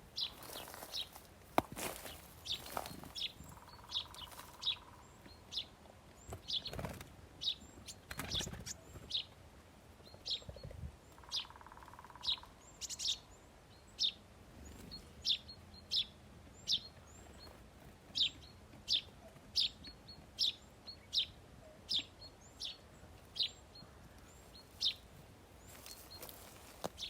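Small songbirds chirping, a short call note repeated over and over, about two a second toward the end, with a few knocks or wing flutters in the first third.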